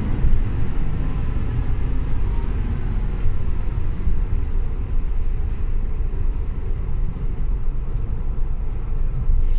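Scania OmniLink CL94UB city bus heard from on board while under way: a steady low engine and road rumble.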